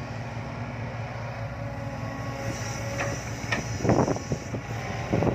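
Heavy diesel machinery, most likely the Sumitomo SH130-5 excavator, running steadily with a faint thin whine. A cluster of knocks and rattles comes about three to four seconds in.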